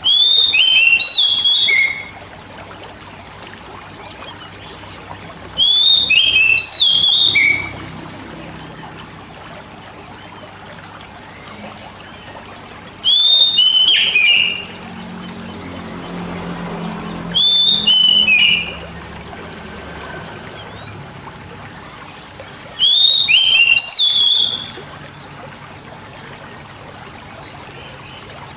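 Oriental magpie-robin (kacer) song: five short phrases of clear, downward-curving whistled notes, one about every five seconds, over a steady background hiss.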